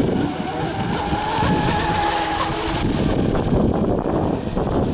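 Brushless electric motor of a Piranha RC racing boat whining at speed, a steady high whine strongest from about one to two and a half seconds in, over a rushing noise.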